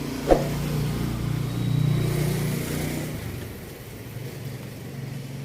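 A motor vehicle passing on the street, its engine noise swelling about two seconds in and then fading, with a sharp knock near the start.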